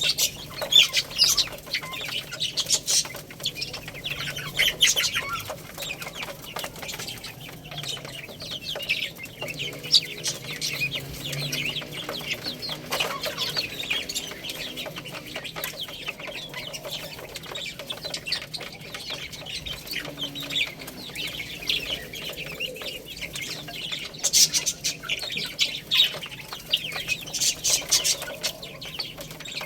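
Baby chicks peeping: a steady stream of many short, high-pitched cheeps, busiest at the start and again near the end.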